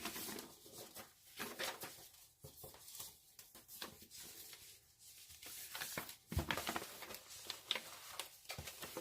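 Paper instruction sheets being handled and turned: scattered light rustles and clicks, busiest about six and a half seconds in.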